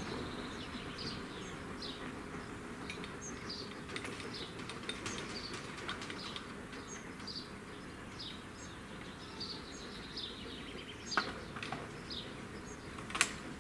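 Small songbirds chirping in many short, repeated notes over a faint low outdoor rumble, with two sharp clicks near the end.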